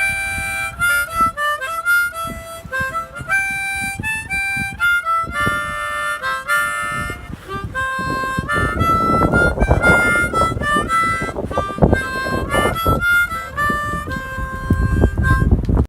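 Harmonica playing a melody of held notes, over a steady strummed string accompaniment. The music stops abruptly at the end.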